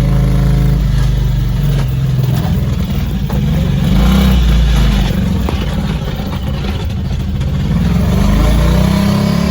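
Turbocharged 5.3-litre LS V8 running hard at full throttle with a heavy, rapid knocking from a failing connecting rod, its pitch rising near the end.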